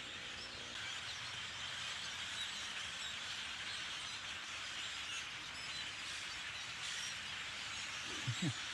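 A large flock of birds calling together from the trees: a steady din of many overlapping calls.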